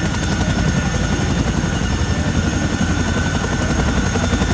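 Army helicopter running, its rotor beating in a fast, even chop with a steady high turbine whine over it.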